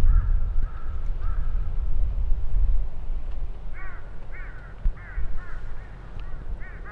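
A series of short, arched animal calls, about two a second, starting a little past halfway, over a steady low rumble.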